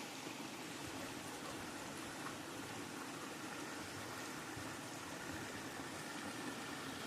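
River water flowing steadily, a constant rushing.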